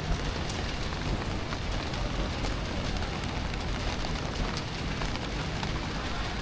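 Steady rain falling, with many small drop ticks, over a low rumble of city background.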